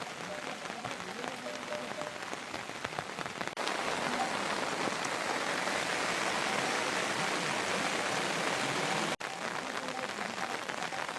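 Heavy rain falling steadily, a dense hiss of many drops. The sound changes abruptly twice, growing louder and denser after about three and a half seconds and dropping back near the end.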